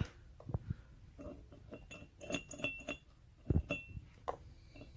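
Metal parts clinking and knocking as they are handled: a string of light clicks, some with a short high ring, and one louder knock about three and a half seconds in.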